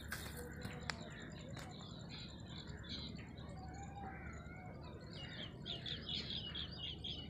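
Birds chirping and calling, faint, ending with a fast run of repeated high chirps over the last two seconds.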